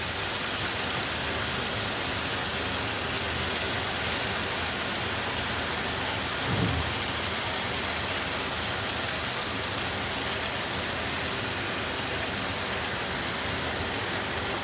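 Chicken pieces sizzling steadily in a frying pan, cooking in teriyaki sauce.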